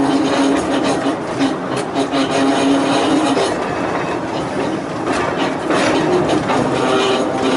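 Volk's Electric Railway car running along the narrow-gauge track, with wheel-and-rail rumble and clicks over the rail joints. A steady electric hum fades for a couple of seconds midway and returns near the end.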